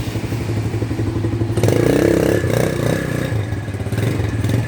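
Shineray Jef 150's 150 cc single-cylinder engine idling steadily, with a louder clattering and scraping from about a second and a half in.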